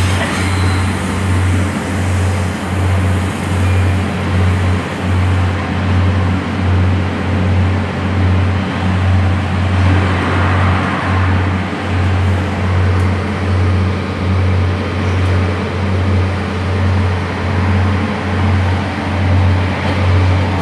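Class 142 Pacer diesel railbus running, heard from inside the passenger saloon: a loud, low drone that throbs in an even beat about twice a second over the rumble of the wheels on the track.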